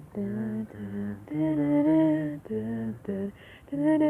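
A slow tune of held, steady notes, each lasting up to about a second, with short gaps between them.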